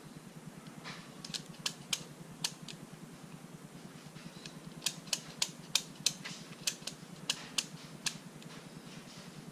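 Click-type torque wrench being set by twisting its handle up to 30 foot-pounds, the adjustment collar clicking through its detents in irregular runs of sharp clicks over a low steady hum.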